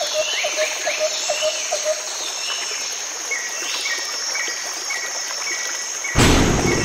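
Nature-ambience soundtrack: a steady high insect trill, crickets and birds chirping, with a short call repeated about three times a second in the first two seconds and a higher call about twice a second later. Near the end a sudden loud rushing noise cuts in.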